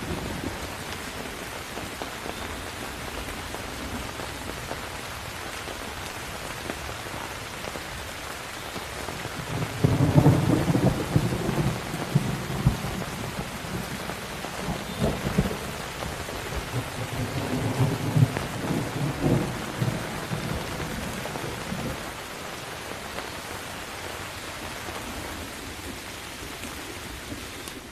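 Steady rain falling, with thunder rumbling twice: a long roll about ten seconds in and another around eighteen seconds.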